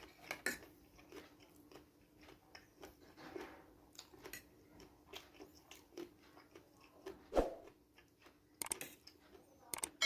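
Close-up eating sounds of someone chewing and biting fried noodles, with many small clicks and one louder knock about seven seconds in.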